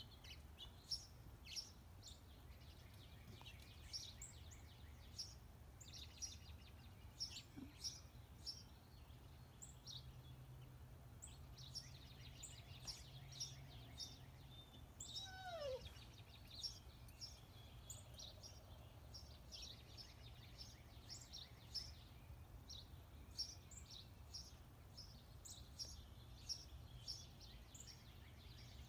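Small birds chirping, many short high calls scattered throughout, over a steady low rumble; about halfway through one call falls steeply in pitch.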